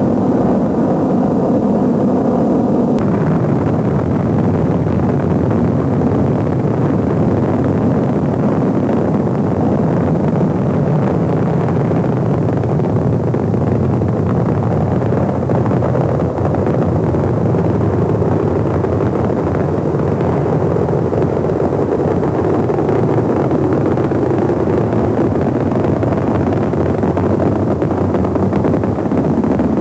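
Rocket engine roar during a launch: a loud, steady, rumbling rush of noise that turns brighter and harsher about three seconds in.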